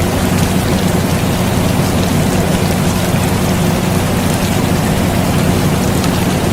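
Steady rain mixed with the even, low hum of an air conditioner, with faint scattered drop ticks.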